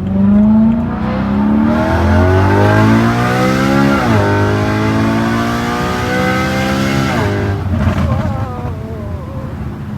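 BMW E93 M3's S65 V8 under hard throttle through a catless resonated X-pipe with its exhaust valves open, the pitch climbing steadily, dipping briefly about four seconds in, climbing again and falling away near seven seconds. The note is a little higher pitched with the catless X-pipe.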